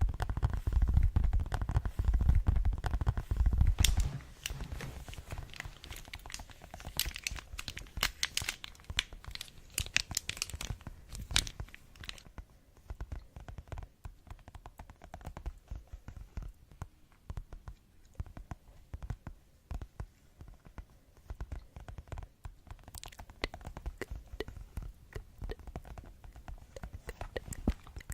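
Rapid fingertip tapping and scratching on objects for ASMR. It is heaviest and loudest in the first four seconds with dull thumps, turns to crisp clicks and scratches, then softer fast ticking, with one sharper scratch near the end.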